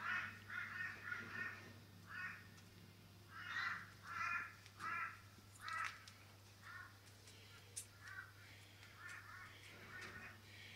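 A bird calling in a run of short repeated calls, loudest and most closely spaced between about three and six seconds in, then fainter and sparser. A low steady hum runs beneath.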